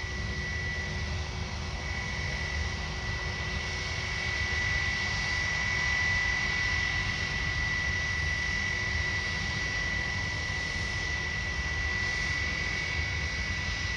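Jet engines of an Airbus A320 airliner running at low power before its takeoff roll: a steady high whine over a low rumble, growing a little louder about a third of the way in.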